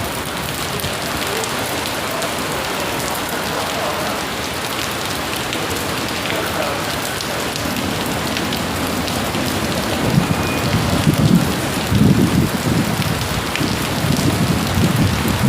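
Heavy rain pouring steadily, with a deep rumble coming and going in the second half.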